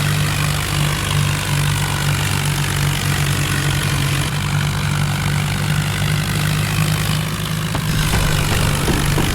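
Tractor diesel engine running steadily, a low drone with a noisy edge.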